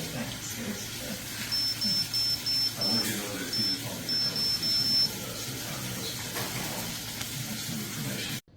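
Short high electronic beeps, about ten in two quick runs, from button presses on a wine cooler's touch control panel.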